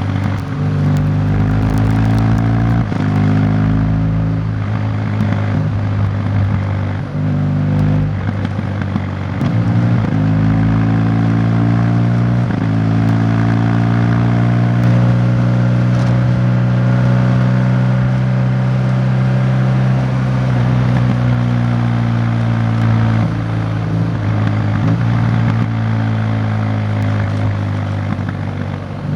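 Motorcycle engine running under way, its pitch stepping up and down several times as the rider shifts gears and changes speed, with wind and road noise underneath. It holds a steady speed through the middle of the stretch.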